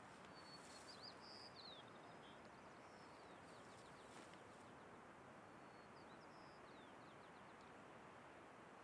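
Near silence: a faint steady outdoor hiss, with two brief groups of high, quick bird chirps, about a second in and again around six to seven seconds in.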